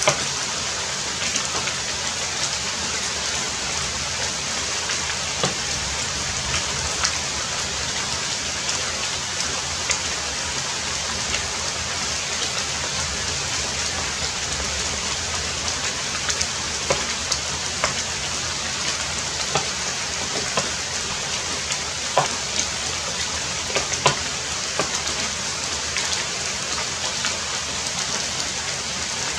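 Heavy rain falling steadily, a dense even hiss with scattered sharper taps of individual drops.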